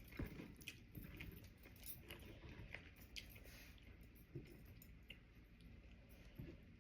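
Faint chewing of sushi, with soft scattered mouth clicks and a few slightly louder ones near the start, midway and near the end.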